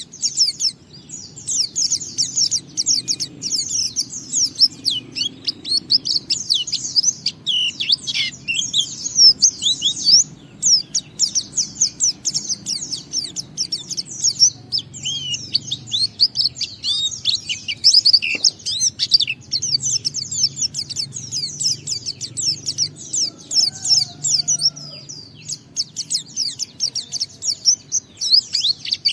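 A white-eye (pleci) singing a long, fast, unbroken run of high chirps and trills, the 'ngalas' song that bird keepers play to prompt other white-eyes to sing.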